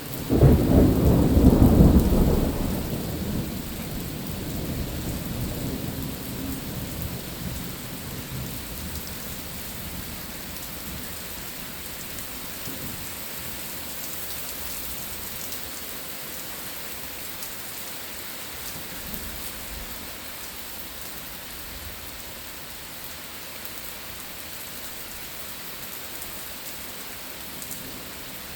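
A thunderclap starts about half a second in, loud for about two seconds, then rumbles away over the next several seconds. Steady rain runs underneath.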